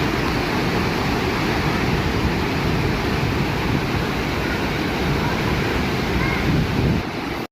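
Waterfall rushing steadily, a dense even wash of water noise.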